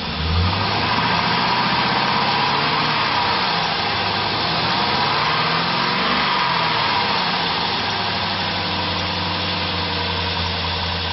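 2000 Chevrolet Suburban 1500's 5.3-litre V8 idling steadily, with a slight waver in speed midway.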